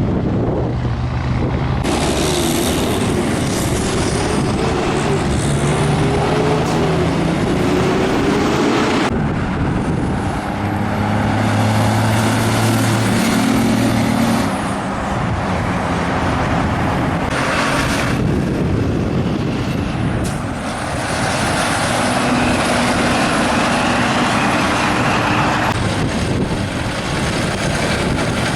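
Big-rig semi trucks passing on a highway one after another, diesel engines running under loud tyre and road noise, the sound changing abruptly several times as one truck gives way to the next.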